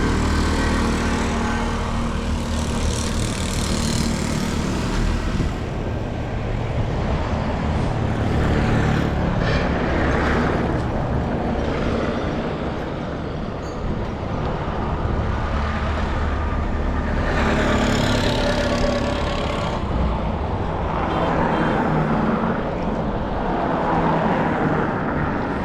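Street traffic: engines running steadily, with several vehicles passing in swells a few seconds apart.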